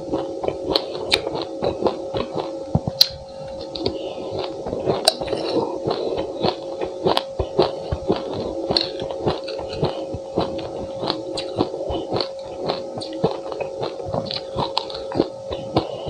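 Close-miked chewing of a mouthful of sesame seeds: dense, rapid crunches and crackles of the seeds breaking between the teeth, several a second, over a steady hum.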